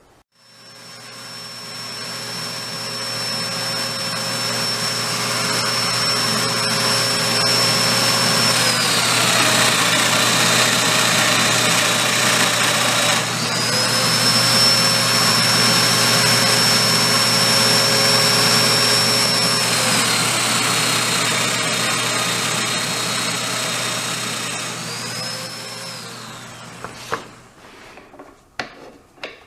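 Electric power tool running steadily with a high whine. Twice its pitch sags for several seconds and recovers, as the motor slows under load while cutting, then a brief third sag before it winds down near the end.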